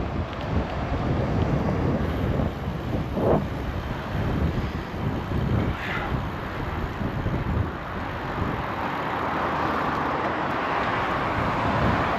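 Wind rumbling on an action camera's microphone while riding a bicycle along city streets, over steady street and traffic noise. A few brief knocks come through.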